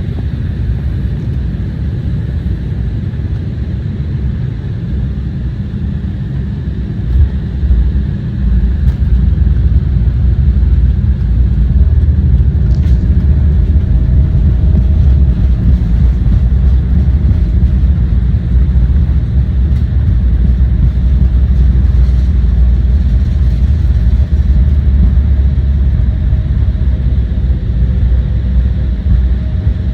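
Jet airliner cabin noise inside a KLM Embraer 175: a steady low rumble that grows louder about eight seconds in and stays up, with a faint steady whine added a few seconds later.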